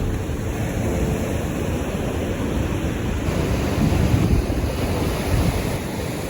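Ocean surf washing on a sandy beach, a steady rushing noise, with wind buffeting the microphone in low gusts about four and five and a half seconds in.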